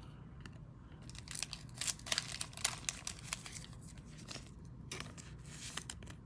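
2021 Panini Rookies & Stars football trading cards and their packaging being handled: a run of small clicks, rustles and crinkles.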